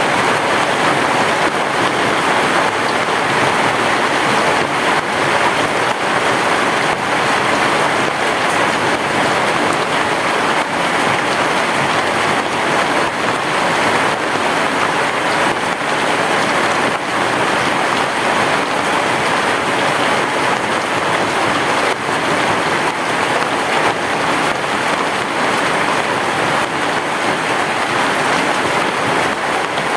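Heavy rain falling in a steady, dense hiss with no thunder.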